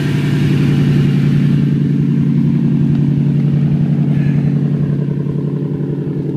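Exhaust of a 2008 Toyota Tundra's 5.7 L i-Force V8, running through straight pipes with the catalytic converters left in, idling with a loud, deep, steady note. The note swells slightly about a second in and eases a little near the end.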